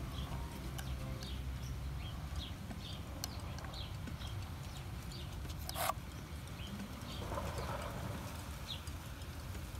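Small birds chirping over and over above a steady low background rumble, with a single sharp click about six seconds in.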